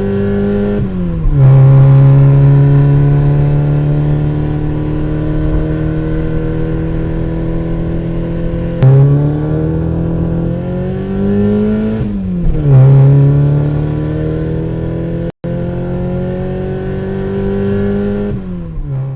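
A motor vehicle's engine pulling steadily. Its pitch drops sharply twice, about a second in and about twelve seconds in, like gear changes, and it climbs as it accelerates around nine to ten seconds. There is a brief gap just past fifteen seconds, and the sound cuts off at the end.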